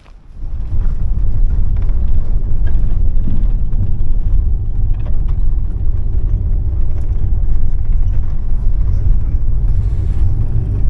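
Steady low rumble of a tour bus's engine and road noise, heard from inside the vehicle while it drives. It comes in suddenly just after the start and stays loud and even.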